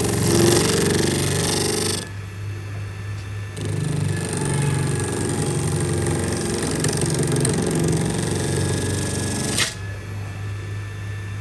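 A motor-driven machine running steadily with a constant low hum. Its higher-pitched noise cuts out twice, about two seconds in and again near the end.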